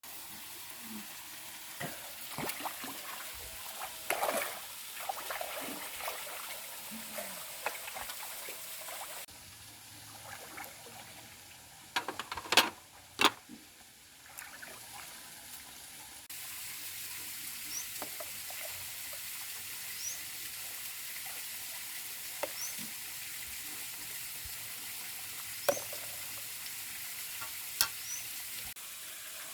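Food sizzling in a pan as it cooks, with scrapes and clinks of a utensil stirring it. A few sharp knocks about twelve to thirteen seconds in are the loudest sounds.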